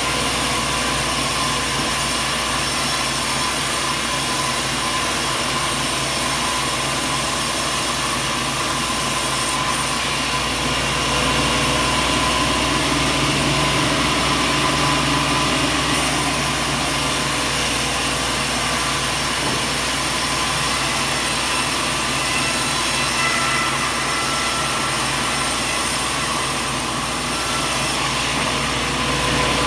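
Sawmill machinery running steadily: a continuous even drone with several steady whining tones, a little louder for a stretch in the middle.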